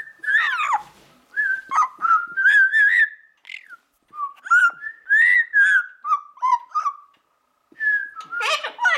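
A parrot whistling: a string of short, gliding whistled notes and chirps with brief pauses between them.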